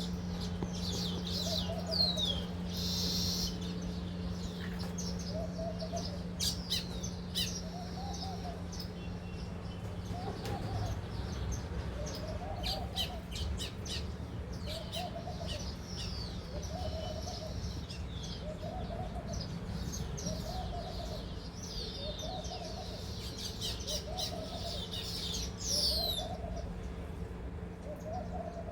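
Flock of baya weavers chattering, with many quick high chirps. Underneath, a low hooting call repeats about every second and a half, over a steady low hum.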